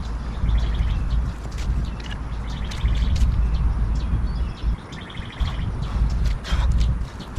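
Birds chirping in short high calls over a steady low rumble, with scattered sharp clicks.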